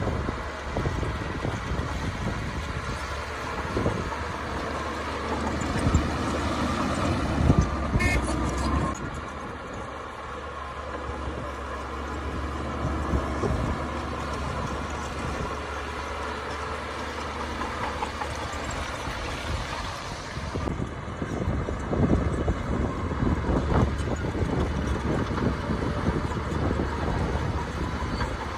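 Heavy diesel earthmoving machinery, a bulldozer and dump trucks, running steadily with occasional knocks. There is a brief high tone about eight seconds in.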